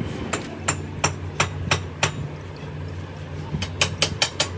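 Hammering: six sharp strikes about three a second, a pause of over a second, then five quicker strikes, over a steady low hum.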